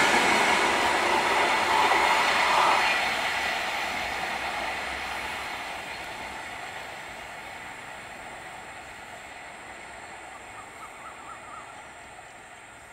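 Express train's passenger coaches rolling away on the rails: the rumble of wheels on track is loud at first and fades steadily over several seconds as the last coach recedes, leaving only a faint far-off rumble.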